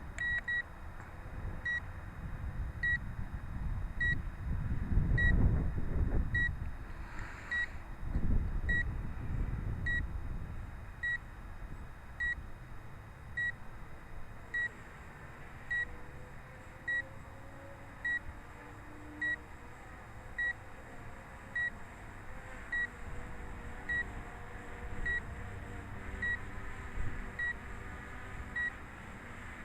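A short high electronic beep repeating about once every 1.2 seconds: a drone controller's warning alarm. It sounds over low wind buffeting on the microphone, with two strong gusts in the first third.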